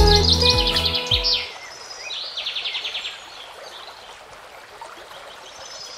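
Background music ends about a second and a half in. Then a small bird sings fast trills of high notes, twice, over faint outdoor background noise.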